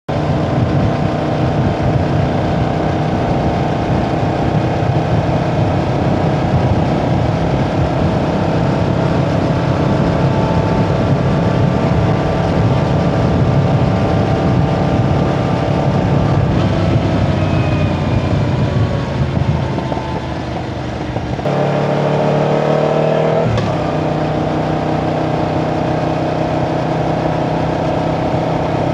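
Yamaha Tracer 7's parallel-twin engine running steadily under way. About two-thirds through, the revs drop off; after a sudden change the revs climb briefly, then settle back to a steady pace.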